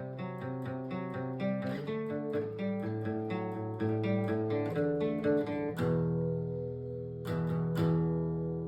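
Acoustic guitar playing without singing: a run of picked notes, then a chord strummed about six seconds in and two more quick strums near the end, left ringing.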